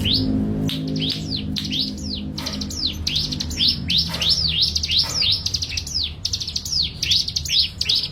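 A songbird calling in a rapid series of short, high notes, each sliding sharply downward in pitch, about three a second, with a steady low hum under the first few seconds.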